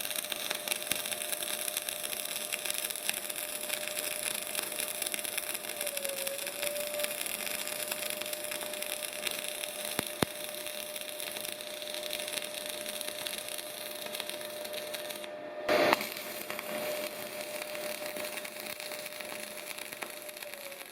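Semi-automatic wire-feed arc welding: a steady, dense frying crackle from the arc with a steady high whine beneath it. About 15 seconds in the crackle drops out for a moment and comes back with a short, loud burst.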